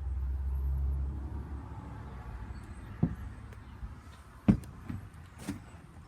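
A low rumble that fades after the first second or so, then a few sharp knocks and thumps; the loudest comes about four and a half seconds in.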